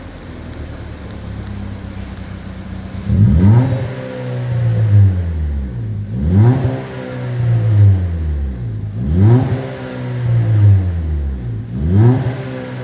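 SEAT Ibiza FR with an upgraded sports exhaust, idling and then blipped four times, about every three seconds. Each time the revs rise quickly and fall back to idle.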